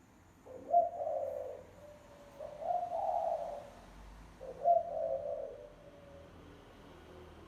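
Spotted dove cooing, a lure call: three low coo phrases about a second apart, then a pause of about two seconds.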